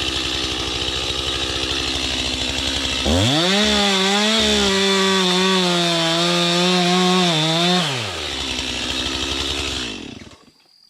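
Two-stroke chainsaw idling, then run at full throttle for about five seconds while cutting through a hollow log, then dropping back to idle. The engine stops near the end.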